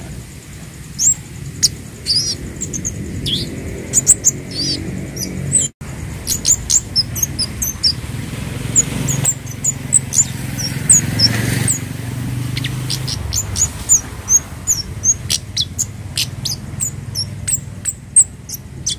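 Scarlet-headed flowerpecker (kemade) calling: a quick, irregular run of short, very high, thin chirps and ticks, some sliding down in pitch, over a low steady background rumble. The sound cuts out for an instant about six seconds in, then the calls go on.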